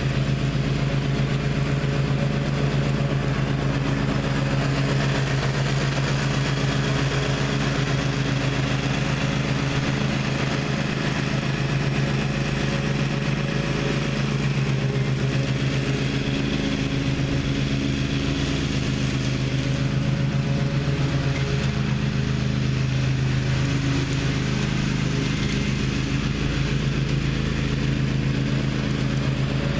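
Gravely ZTx 42 zero-turn mower's engine running steadily at an even speed.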